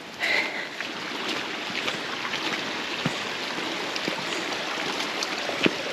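Steady rushing of running water from a creek, with a few faint footfall clicks on the trail.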